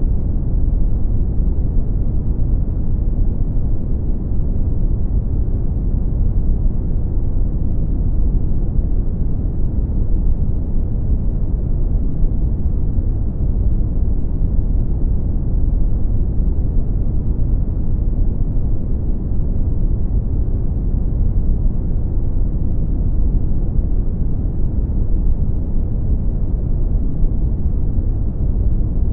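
Brown noise: a steady, deep rumbling hiss, heaviest in the bass and dull in the treble, unchanging throughout.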